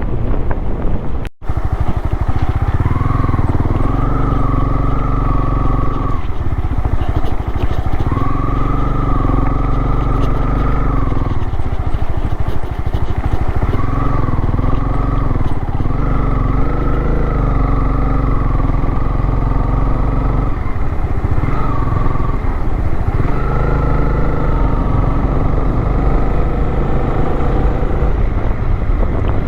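Honda motorcycle engine running while riding, its tones coming and going every few seconds with the throttle, over a heavy rumble of wind and road noise. The sound drops out briefly about a second and a half in.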